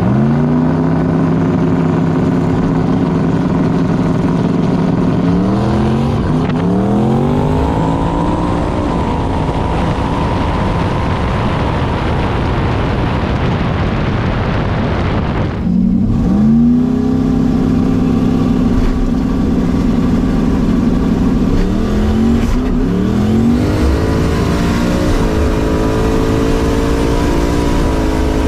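Drag car engine running at a steady low speed, then revving up in quick steps twice, about a fifth of the way in and again near the end, with an abrupt break about halfway through.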